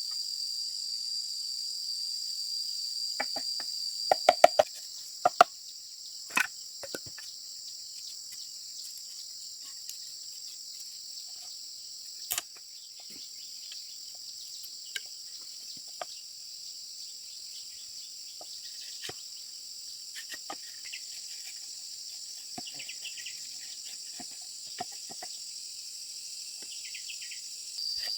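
Insects chirring in a steady high-pitched drone, broken by scattered sharp knocks and taps, a quick cluster of them about four seconds in and single ones later.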